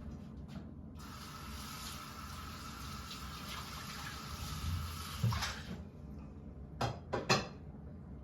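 Water tap running into a sink for about five seconds, then shut off, followed by a few short knocks.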